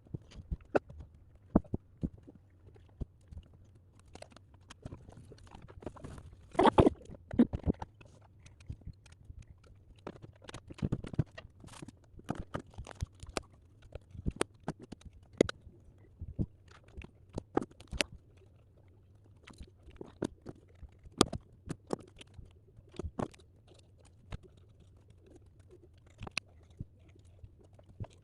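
Irregular light clicks, taps and brief rustles from drawing and crafting tools and paper being handled at a desk, a few of them louder.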